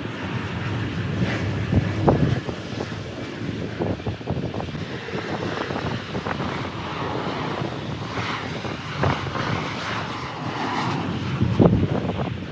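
Jet airliner's engines on landing approach, a continuous uneven rumble.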